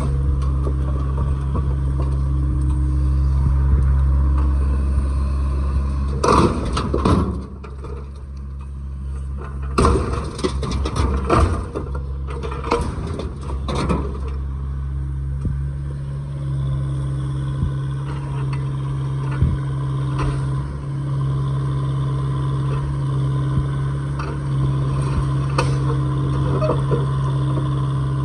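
A heavy machine's engine running steadily, with loud clattering and scraping of broken concrete slabs being loaded, once about six seconds in and again from about ten to fourteen seconds.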